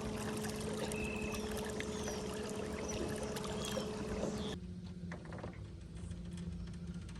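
Water rushing and splashing around a small jon boat, under a steady low hum. The sound drops abruptly to a quieter, thinner wash with a fainter hum about four and a half seconds in.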